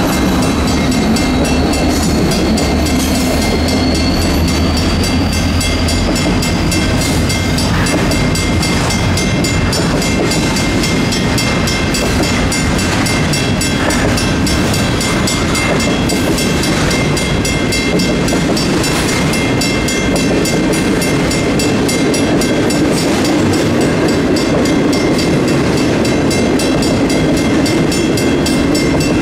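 Union Pacific intermodal freight train rolling steadily past a grade crossing, with the rumble and clickety-clack of wheels on rail. The crossing's mechanical and electronic bells keep ringing through it.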